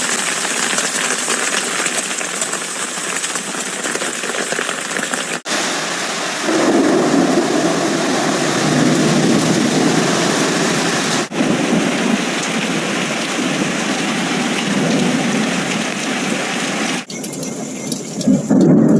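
Heavy hail and rain pelting down in a dense, steady hiss. Strong wind rumbles on the microphone through the middle part. The sound breaks off sharply a few times where one clip gives way to the next.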